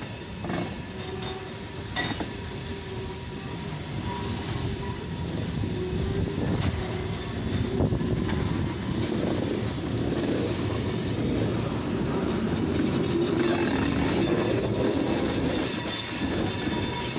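CSX freight train's tank cars rolling past at close range: a dense rumble of steel wheels on rail, with a few sharp clicks as wheels cross rail joints. About three-quarters of the way in, a high-pitched wheel squeal sets in and grows louder.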